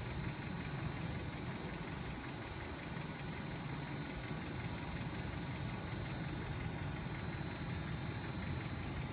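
Steady low rumble of an idling car engine, with a thin, steady high-pitched whine over it.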